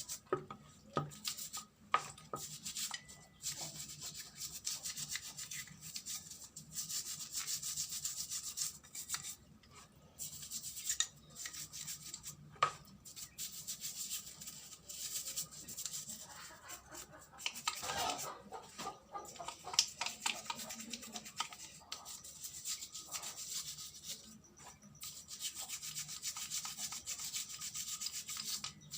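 Rapid, repeated rubbing strokes on a small hard part, scrubbing on a scooter carburetor part, coming in bouts with a few sharp clicks of parts being handled.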